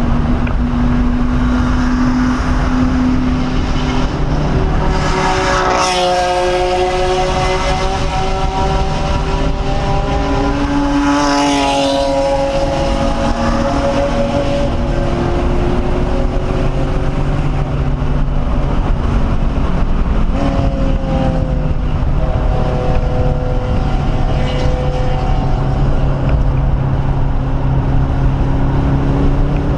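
1997 SVT Cobra Mustang's V8 engine, heard from inside the car, driven hard on track. The revs climb steeply and break off twice, at about six and twelve seconds in, and fall sharply about twenty seconds in before climbing slowly again, over steady road and wind noise.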